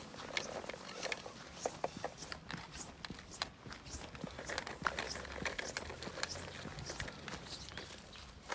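A Shiba Inu eating raw meat and bone, with irregular small crunching and clicking sounds.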